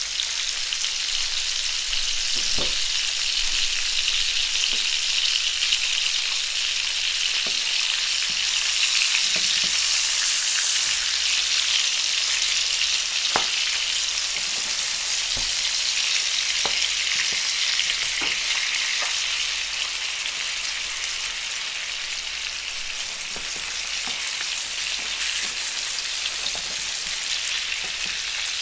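Salmon steaks sizzling in butter and olive oil in a frying pan, a steady hiss with a few short knocks of a wooden spatula against the pan.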